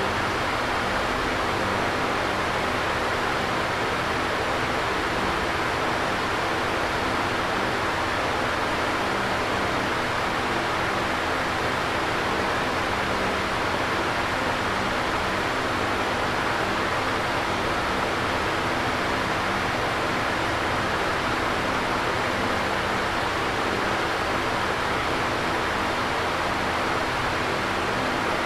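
Electric fan running: a steady, even whoosh of moving air with a faint low hum from the motor beneath it.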